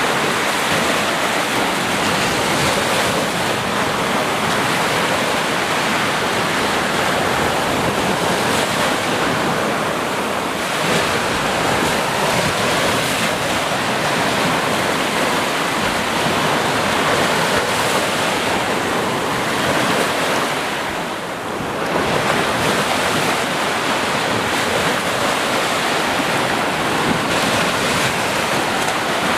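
Sea surf: waves breaking and washing on the shore in a dense, continuous rush, easing briefly about two thirds of the way through before the next wave comes in.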